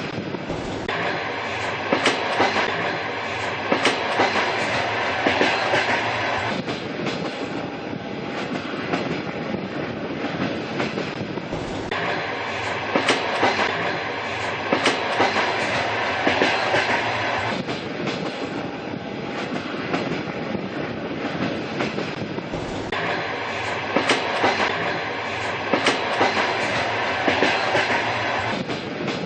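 Train carriage running along the rails: a steady rumble broken by sharp clickety-clack of wheels over rail joints. The pattern comes round about every eleven seconds, like a looped recording.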